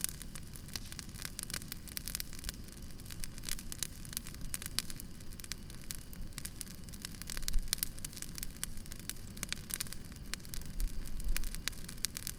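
Wood fire crackling steadily, with frequent sharp pops and snaps over a soft hiss. A couple of dull low thumps stand out, the loudest about seven and a half seconds in.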